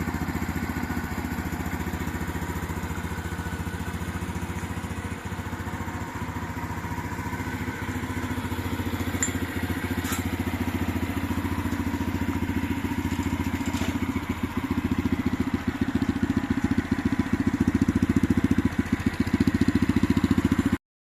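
Honda Dax 125's air-cooled single-cylinder engine idling, a fast even exhaust beat, growing somewhat louder over the last few seconds, with a light click about halfway through.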